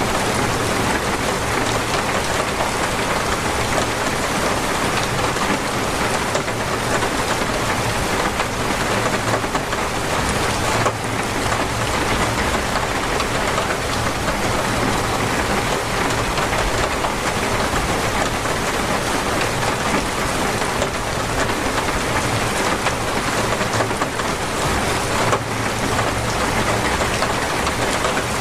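Torrential rain falling steadily in a dense, even hiss, with a couple of sharper drop hits about eleven seconds in and near the end.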